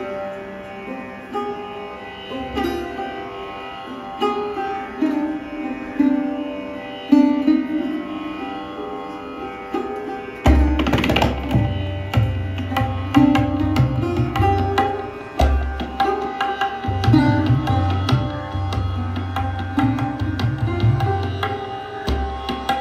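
Sarod playing a plucked melodic phrase of Indian classical music over its ringing drone strings. About halfway through, tabla joins with deep bass strokes under the melody.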